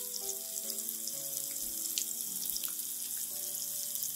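Sliced onions and dried red chillies sizzling in hot oil in a frying pan, a steady hiss with scattered crackles. Slow background music of held notes plays underneath.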